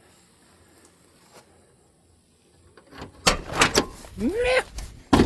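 Metal rattles and knocks from an old pickup truck's door, with a short rising creak, then a single sharp bang near the end.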